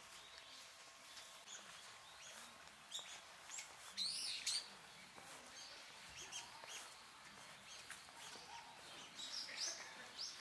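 Birds chirping: short, high calls at irregular intervals, with the loudest cluster about four seconds in and another group near the end.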